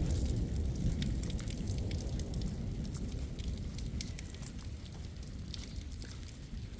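Rain pattering in scattered light ticks over a low rumble of wind, slowly easing off.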